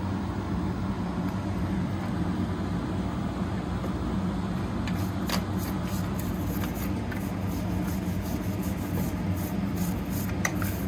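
Steady low mechanical hum, with quick, repeated rubbing strokes starting about five seconds in.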